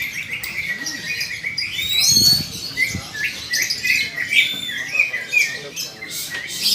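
Caged cucak ijo (green leafbirds) singing in a song contest, many overlapping chirps and quick whistled phrases.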